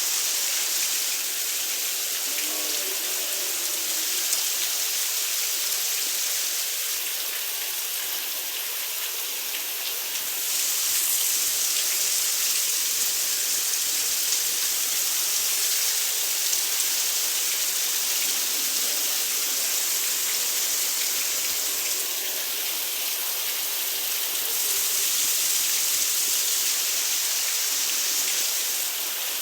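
Heavy rain falling steadily, a dense hiss that swells and eases every several seconds.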